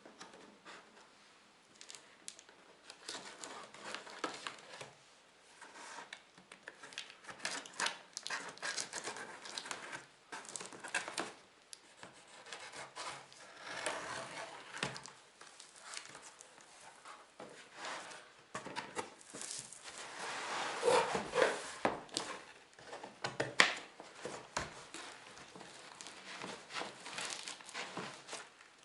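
Packaging being handled and opened: irregular rustling, crinkling and rubbing with scattered sharp clicks, busiest and loudest about two-thirds of the way through.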